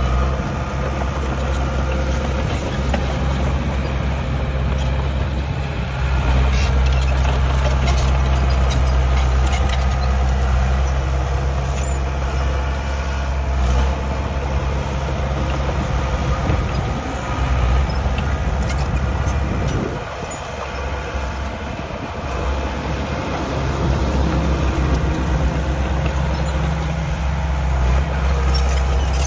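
Diesel engines of heavy earthmoving machinery running with a deep, steady rumble, easing briefly about two-thirds of the way through.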